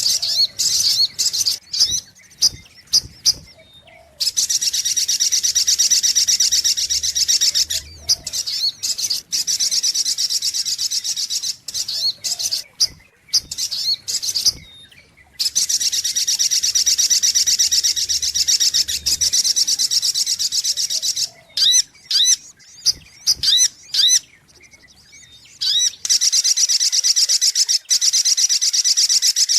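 Spiderhunter (sogok ontong) call played as a bird-trapping lure: long, very fast high-pitched trills several seconds long, broken by bursts of sharp single chip notes.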